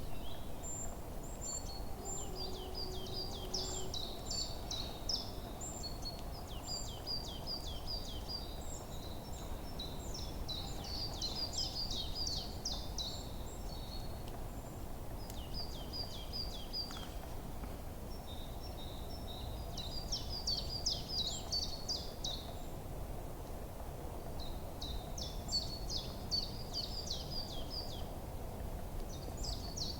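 Songbirds chirping in a forest, with quick repeated high phrases one after another, over a steady low background rumble.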